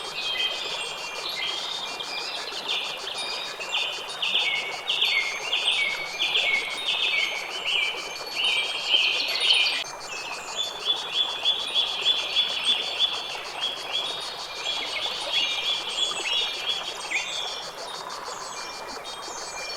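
Birds chirping and singing in quick runs of short repeated notes, busiest through the middle and thinning out near the end, over a steady soft background rush.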